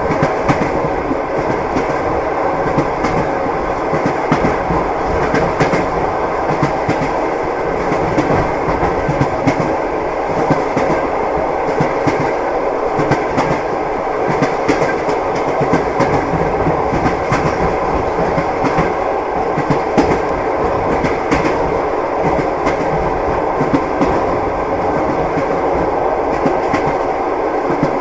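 Train wheels clacking over rail joints as heard inside a passenger carriage, with short clicks scattered over a steady rolling rumble.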